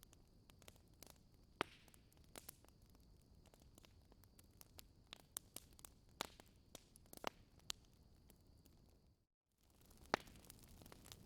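Wood fire crackling, faint, with irregular sharp pops and snaps. The sound cuts out completely for a moment about nine seconds in, then the crackling resumes.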